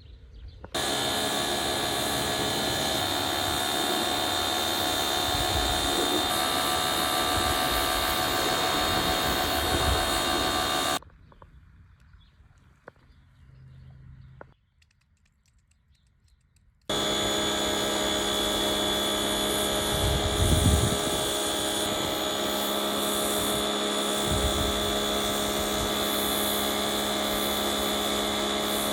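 Car-wash machinery running steadily with a high whine over a rushing noise, in two long stretches that start and stop abruptly.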